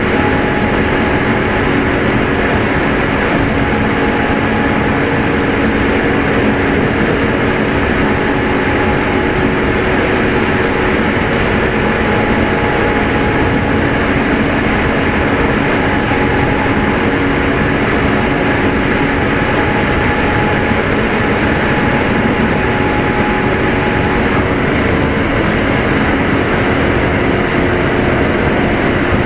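Running noise inside a Kintetsu 2610 series electric train's motor car: steady hum of the traction motors and gears over wheel-on-rail rumble, at an even speed.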